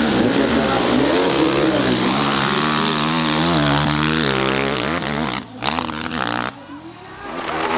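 Dirt bike engine revving hard, its pitch rising and falling as the throttle works. The engine drops off about five and a half seconds in, goes briefly quieter, then revs up again near the end.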